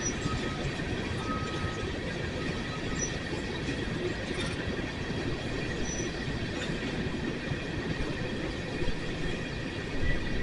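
Empty coal hopper cars rolling slowly past on the rails, a steady rumble of steel wheels with a few brief, faint wheel squeals and a couple of louder knocks near the end.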